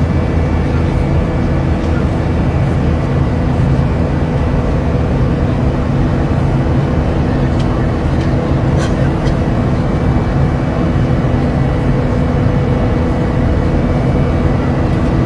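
Steady cabin noise of an airliner in flight: an even roar with a low hum of several steady tones.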